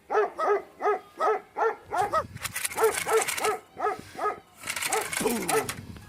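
A dog barking in a quick, even run of short barks, about three a second, with a hiss laid over the barks twice partway through.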